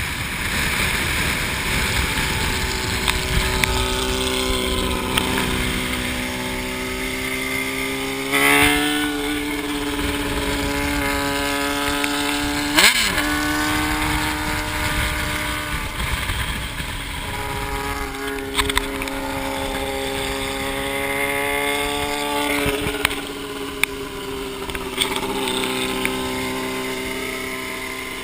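Yamaha XT660's single-cylinder four-stroke engine running while the bike is ridden, its pitch falling and climbing again several times with throttle and gear changes, over a steady rush of noise.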